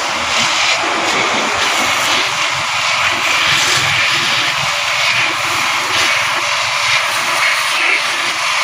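Pressure washer spraying a steady, loud hissing jet of water.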